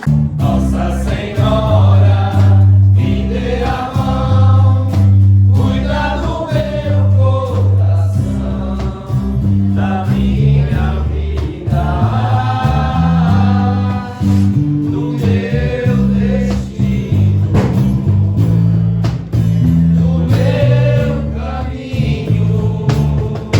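Religious song with a choir singing over a steady, stepping bass line; it starts abruptly and runs loud throughout.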